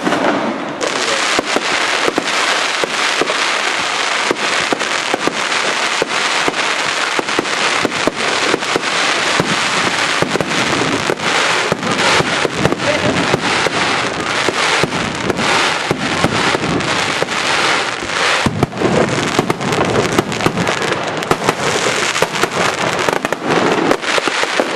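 Aerial fireworks going off at close range: a rapid, continuous string of sharp bangs and pops over a steady crackling hiss.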